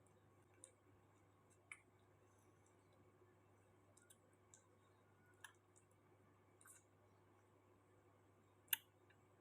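Near silence broken by a sparse run of small clicks from eating and handling food, with one sharper click near the end.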